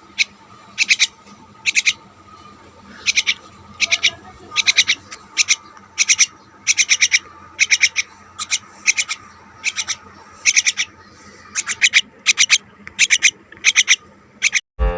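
Pet birds chirping in repeated short bursts of quick high notes, about one burst a second. Music comes in right at the end.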